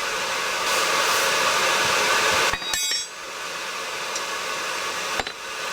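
Blacksmith's forge running with a steady rushing hiss, then a sharp metallic clink with a brief ring about two and a half seconds in as the steel is handled, after which the rushing is quieter. A single sharp click comes near the end.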